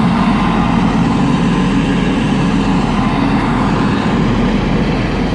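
Class 185 diesel multiple unit pulling into the platform, its underfloor diesel engines running with a loud, steady rumble.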